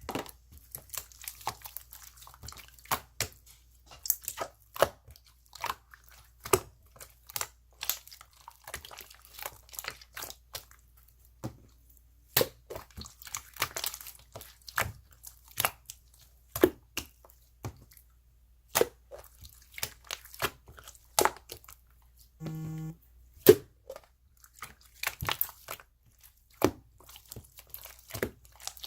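Irregular crisp crackles and crunches close to the microphone, coming several times a second with short gaps. A brief low buzzing tone sounds about three-quarters of the way through.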